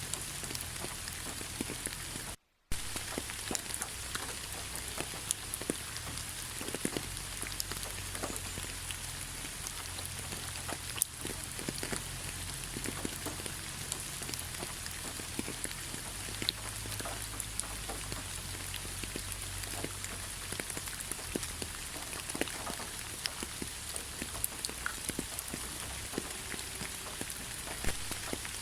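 Steady rain falling, with many separate drops ticking close by. The sound cuts out to silence for a moment about two and a half seconds in.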